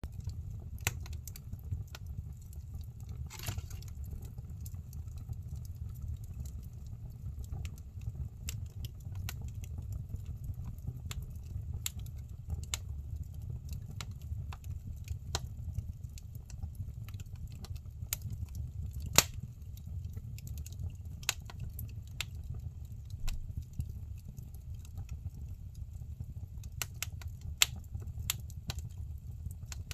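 Firewood burning in a fireplace: irregular crackles and sharp pops from the logs over a steady low rumble of the flames, with one louder pop about two-thirds of the way through.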